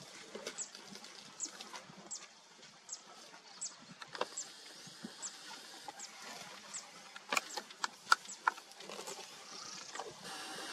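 A bird repeating short, high, downward-sliding chirps, about one every 0.7 seconds, over open-country ambience. A few sharp clicks or knocks come close together about three-quarters through and are the loudest sounds, and a steady hiss rises near the end.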